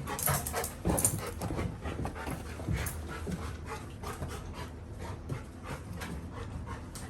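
Labrador retriever puppy panting fast and whimpering, eager to be taken out for a walk; loudest in the first second.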